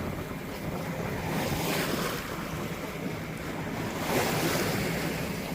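Wind buffeting the microphone and water rushing against the sailboat's hull in big waves, surging louder twice, over a steady low hum.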